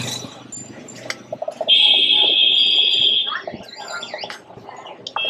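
A high-pitched electric horn sounding once, a steady buzzing tone for about a second and a half that cuts off suddenly, over street traffic noise.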